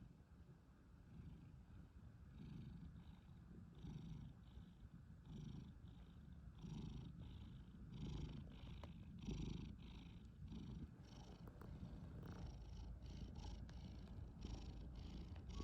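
A cat purring faintly, in a soft rhythm of about two pulses a second.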